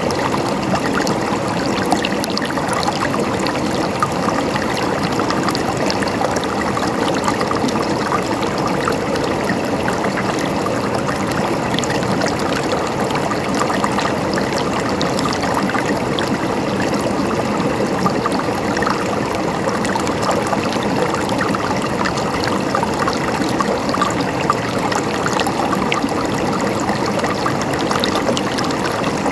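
Flowing water gurgling steadily, with constant small splashes and no pauses.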